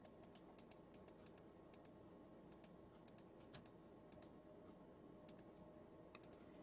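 Faint, irregular clicking of computer keys over quiet room tone. The clicks come quickly at first and thin out after about three and a half seconds.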